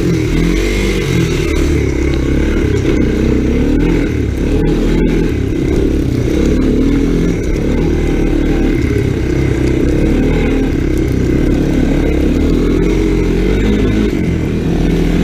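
Honda ATC 250SX three-wheeler's engine running under way, its pitch rising and falling with the throttle.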